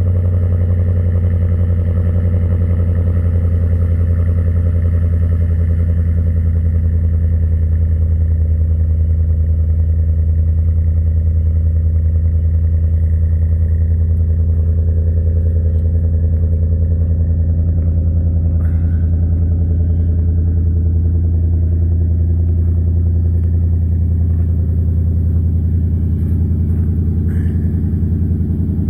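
An engine idling steadily with a low, even running note.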